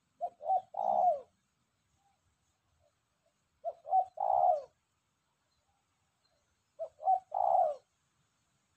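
Spotted dove cooing: three calls about three seconds apart, each two short coos followed by a longer coo that falls in pitch at the end.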